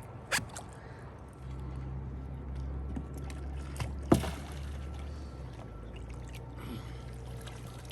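Light water sounds around a kayak on a river, with a couple of sharp knocks, the louder one about four seconds in. A low steady hum runs underneath for a few seconds in the middle.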